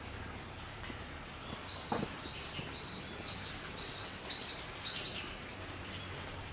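A small bird calling a quick run of short, high chirps in doubled pairs, about ten pairs over three and a half seconds and getting louder toward the end, over a steady low outdoor hum. A single sharp knock sounds about two seconds in.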